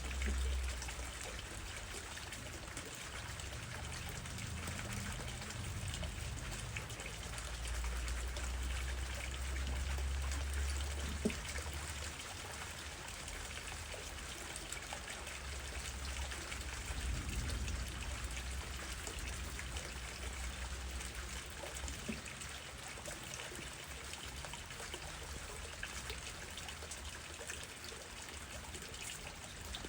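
Steady rain falling, with wind through trees as a low rumble that swells and eases. There is a single sharp tick about eleven seconds in.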